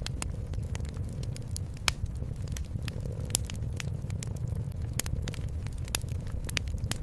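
Wood fire crackling with irregular sharp pops over a steady low rumble.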